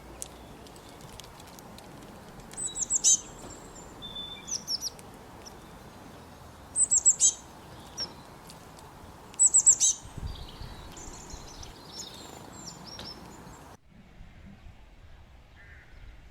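Birds calling: three loud bursts of rapid, high-pitched chirps, each a quick run of falling notes, about four seconds apart, with softer calls between them over a steady background hiss. The background drops abruptly near the end.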